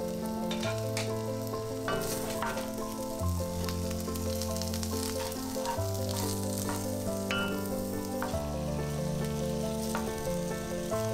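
Sliced onion and garlic sizzling in oil in a pan, with a steady crackling hiss and scattered small pops, and a wooden spoon stirring them in the second half. Background music with slow chord changes plays underneath.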